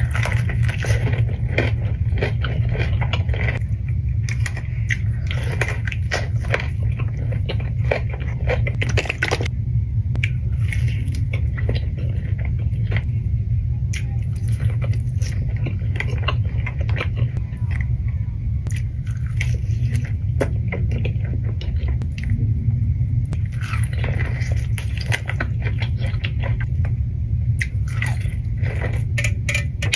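Close-miked eating: a person biting into and chewing crunchy food, with many small crunches and crackles, over a steady low hum.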